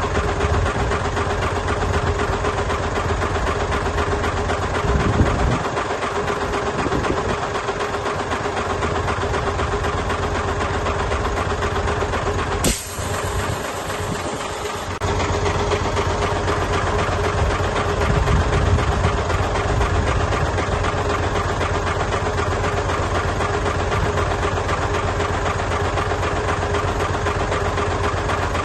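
Heavy earthmoving machine's diesel engine running steadily with a constant drone. About 13 seconds in, the low rumble drops away for about two seconds under a hiss.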